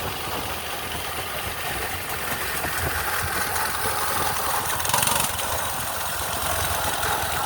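Minibike's small engine running steadily, a little louder about five seconds in.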